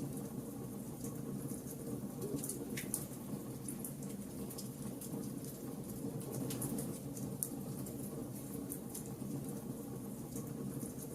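Wood fire burning: a steady low rumble of flames with frequent small sharp crackles and pops from the burning wood, a few louder snaps among them.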